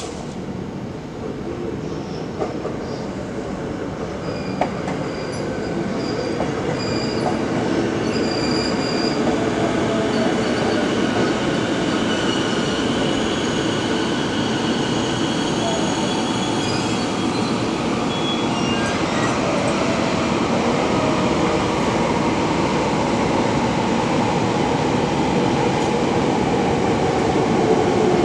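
Electric commuter train pulling into the platform, its running noise growing steadily louder as it comes in. High wheel squeals sound over the first half, and a whine falls in pitch as the train brakes to a stop.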